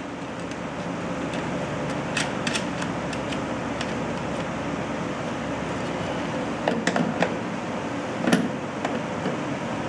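A steady mechanical hum, like a running fan, with a few sharp clicks and taps of small parts or tools being handled.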